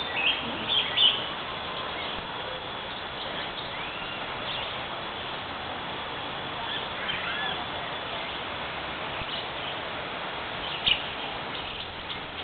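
Birds chirping and calling at intervals, with short high chirps and a few curving whistled notes, loudest in the first second and again briefly near the end, over a steady background hiss.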